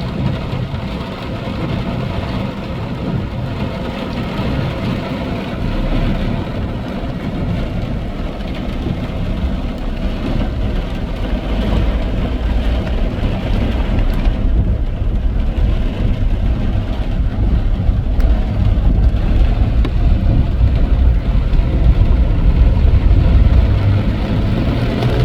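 Heavy rain with a steady low rumble beneath it, growing louder toward the end.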